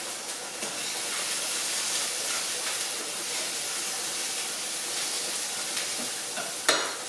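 Onion and bacon sizzling in a frying pan, a steady hiss, with a brief knock near the end.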